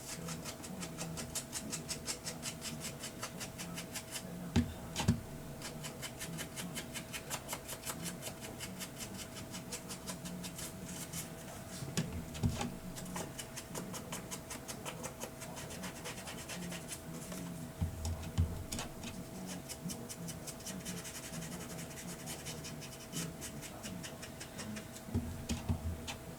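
Edges of a paper card being inked: rapid, repeated rubbing and dabbing strokes of an ink applicator against the card, with a few louder knocks on the table now and then.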